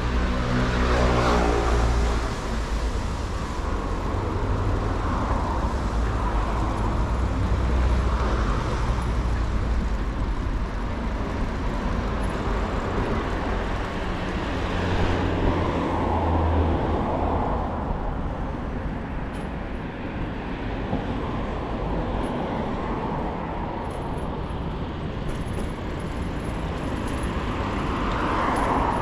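City street traffic heard from a moving bicycle: cars and other motor vehicles running and passing. About a second in, a passing vehicle's engine drops in pitch, and there are heavier engine rumbles a few seconds in and again midway.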